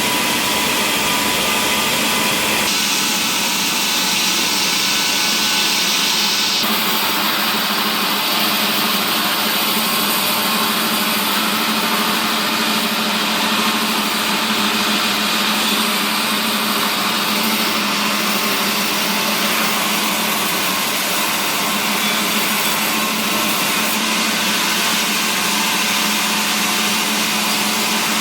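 Wood-processing machinery running steadily with a loud continuous mechanical noise, its tone changing abruptly a few times.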